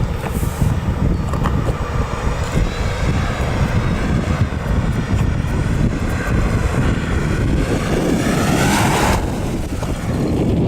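1972 Chevrolet Nova's engine running steadily, rising in pitch about eight seconds in before cutting off suddenly a second later.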